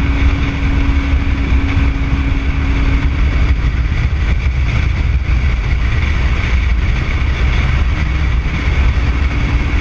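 Motorcycle engine running at a steady speed under a heavy rush of wind on the microphone, as heard while riding.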